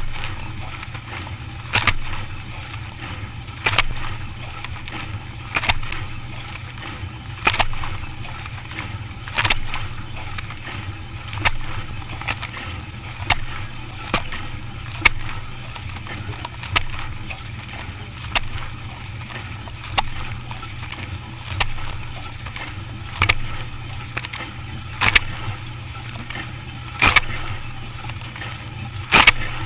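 Dishwasher running: a steady low motor hum with water sloshing, and a sharp knock or splash about every two seconds in an even rhythm.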